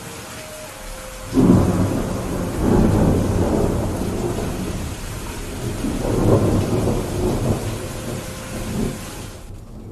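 Steady rain with a long roll of thunder that breaks in suddenly about a second in, rumbles on in several swells, and dies away near the end.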